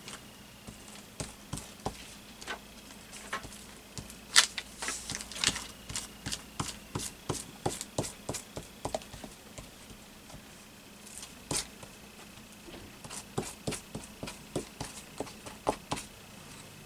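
Hands handling paper collage pieces and glue on a work table: a busy run of small clicks, taps and rustles, loudest about four seconds in, with a brief lull around ten seconds.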